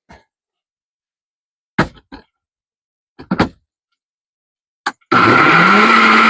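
A few sharp knocks and clicks, then about five seconds in a countertop blender motor starts, rising in pitch as it spins up, and runs loud and steady, blending strawberries, ginger and water.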